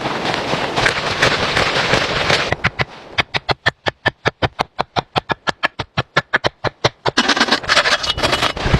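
A fast, regular run of short sharp scraping strokes, about five a second, between stretches of dense rustling noise.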